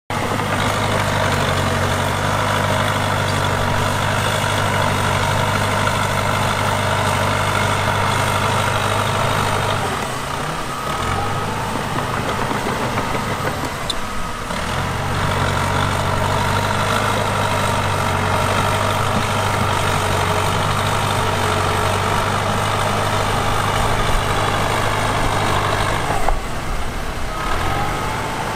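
Heavy diesel engine of earthmoving equipment running steadily, its note dropping away briefly about ten seconds in, again around fourteen seconds, and near the end before picking back up.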